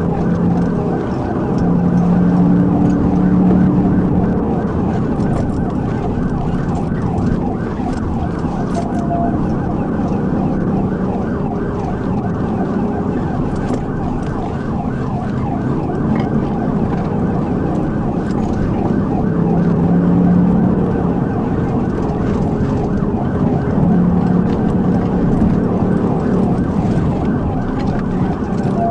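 Police car siren sounding continuously in a fast rise-and-fall, over the loud, steady engine and road noise of the patrol car driving at pursuit speed.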